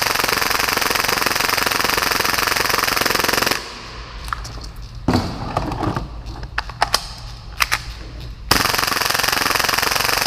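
Full-auto Tokyo Marui Hi-Capa airsoft pistol running on 120 PSI air, firing a continuous stream at about 30 rounds a second. The fire stops about three and a half seconds in, with a few sharp clicks and handling noise, and starts again as a steady stream about eight and a half seconds in.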